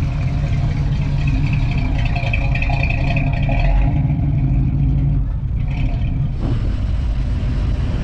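Classic car engines rumbling as the cars drive slowly past.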